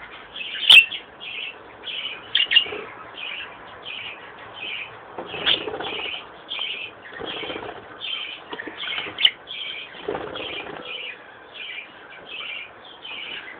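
Pet budgerigars and cockatiels chirping in a steady, even series of about two calls a second, with a few louder rustling flutters and sharp clicks among them.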